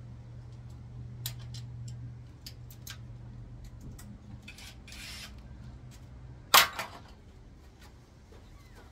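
Small metal gearbox parts and tools clinking and clicking as the transmission is taken apart, with a short scrape about halfway through and one sharp, loud metal knock about two-thirds in. A low steady hum underneath stops at about the same moment as the knock.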